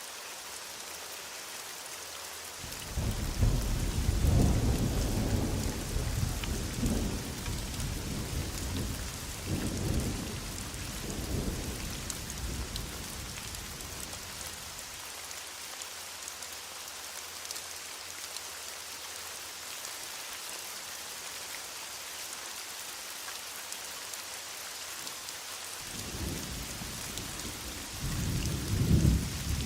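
Heavy rain falling steadily, with thunder: a long deep rumble begins about three seconds in and dies away over some ten seconds, and another peal starts near the end.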